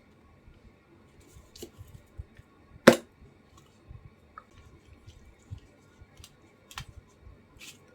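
Small handling sounds of painting at a craft table: faint scattered taps and rustles, with one sharp click about three seconds in, like the brush or a tool knocking against a jar or the tabletop.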